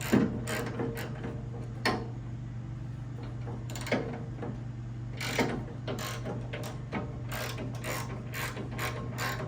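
Hand ratchet clicking in short runs as bolts holding a car door's window assembly are backed out, with a few louder metal clinks.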